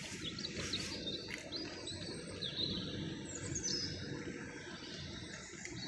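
Small birds chirping and singing in quick, short high notes, over a low, steady background noise.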